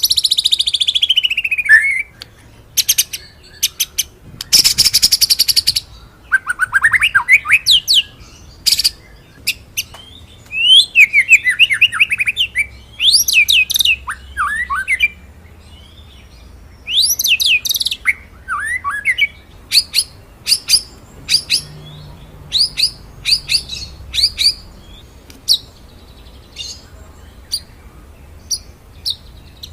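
White-rumped shama (murai batu) singing a loud, varied song. It opens with a long falling whistle and a fast trill about four seconds in, runs through sweeping rising and falling phrases, and ends in a string of short, sharp single notes.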